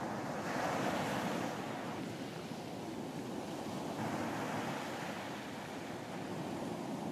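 Ocean surf washing onto a beach, with a wave surging up about half a second in and another around four seconds in, under light wind on the microphone.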